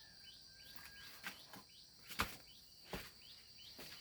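A steady high insect drone with a run of short rising chirps, about three a second, typical of insects or a small bird calling outdoors. Three or four sharp knocks fall across it, the loudest a little past halfway.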